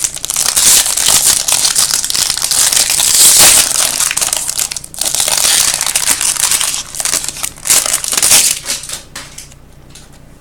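Plastic wrapping of a trading card pack crinkling loudly and continuously as it is torn open and handled. The crinkling dies away about nine seconds in.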